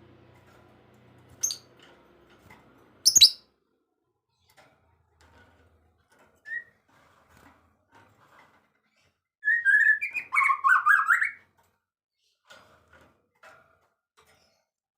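A songbird calling and singing: two sharp, high clicks in the first few seconds, a single short note midway, then a loud, fast warbling phrase lasting about two seconds in the second half.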